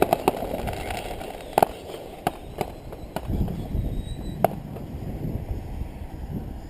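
Fireworks shells bursting in scattered sharp bangs, several in the first three seconds and a last one about four and a half seconds in. A low rumble rises in the second half.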